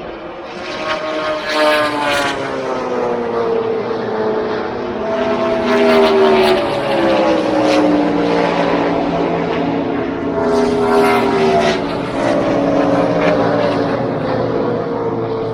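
Car engines running hard as the cars pass on the track, each engine note falling in pitch as it goes by, about three times in a row.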